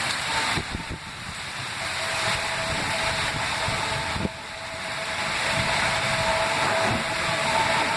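Steady rain falling, a dense even hiss, with a short knock about four seconds in.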